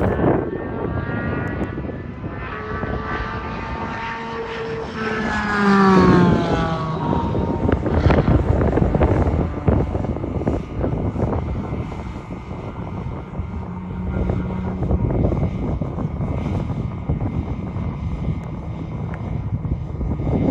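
A race car's engine at high revs approaching and passing by at speed. Its pitch drops sharply about five to six seconds in as it goes past, and it is loudest just then. A rough, steady engine and wind noise follows.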